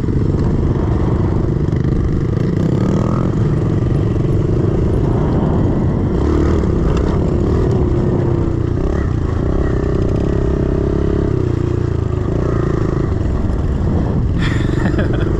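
A 110cc four-stroke pit bike engine running hard on a dirt track. Its pitch steps up and down as the engine speed rises and falls.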